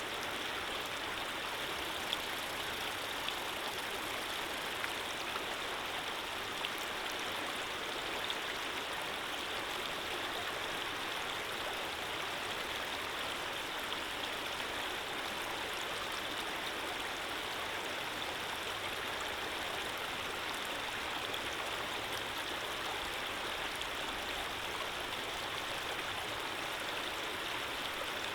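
Running water flowing steadily, like a gentle stream, with a few brief louder splashes in the first eight seconds.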